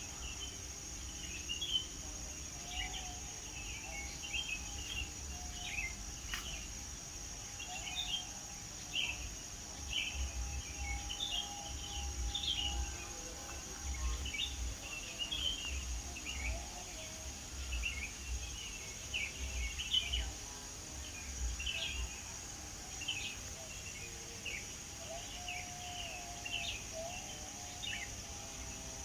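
Several birds chirping and calling in quick, short notes, over a steady high-pitched insect drone and a low rumble.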